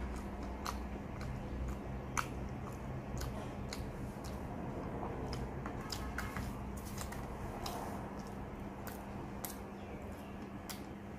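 Close-up mouth sounds of a person chewing soft fried sweet potato dipped in milk: wet, squishy chewing with many short clicks and smacks. A steady low hum runs underneath.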